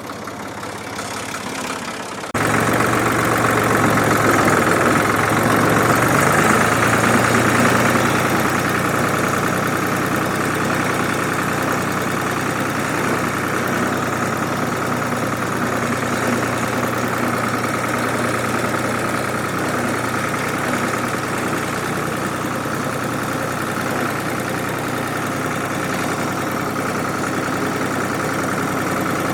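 A 1967 Ford 2000 tractor engine running steadily. A couple of seconds in it suddenly becomes much louder, then runs evenly.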